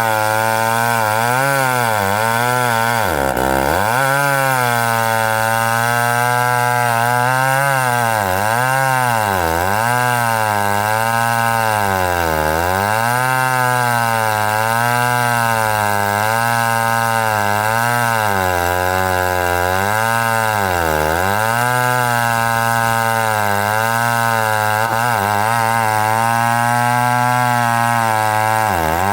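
Chainsaw running hard and cutting, its engine pitch repeatedly sagging as the chain loads up in the wood and climbing back, with a few deeper dips.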